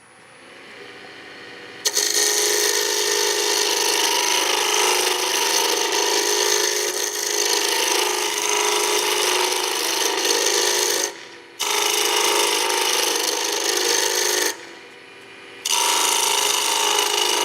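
Woodturning gouge cutting a spinning pine spindle on a lathe: a loud, continuous rasping as the tool shaves the wood, in three long passes with two brief breaks where the tool comes off the work. The tool is not cutting well, which the turner puts down to an edge that is not sharpened correctly. A fainter lathe spin-up is heard before the first cut.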